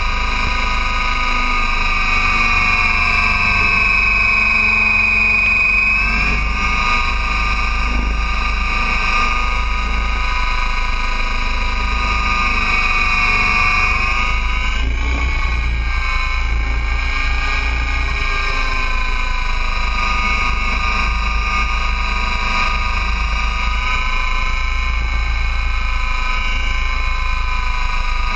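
Align T-Rex 800 radio-controlled helicopter flying: a steady high whine from its motor and rotor, dipping in pitch about six seconds in and again around the middle. Wind rumbles on the microphone underneath.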